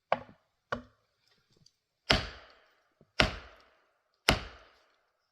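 Felling wedge struck in a tree's back cut: two light taps, then three hard blows about a second apart, each ringing briefly. The tapping tests whether the tree is cut through enough to be wedged over.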